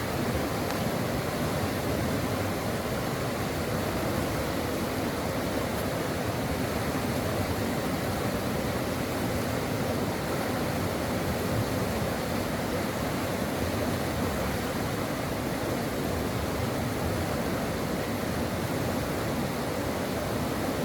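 Stream water flowing steadily over rocks, an even rushing and babbling with no breaks or changes.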